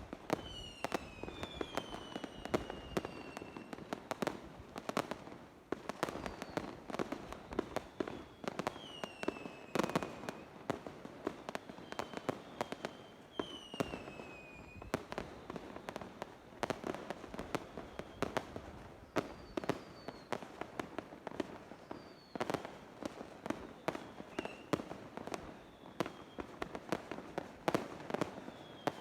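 Fireworks going off continuously: dense, irregular bangs and crackling. Several whistling shells are heard, their whistles falling in pitch over a second or two.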